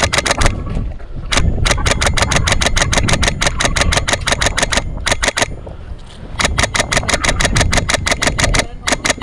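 Airsoft gun firing on full auto at about ten shots a second, in bursts: a short one, a long one of about four seconds, another of about two seconds, and one more starting near the end. Strong wind rumbles on the microphone underneath.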